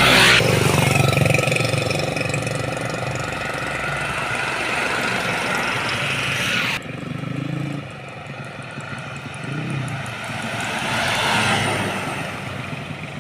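Heavy trucks passing on a road, engines running. The sound cuts off suddenly about halfway through, then quieter vehicle noise swells up again near the end.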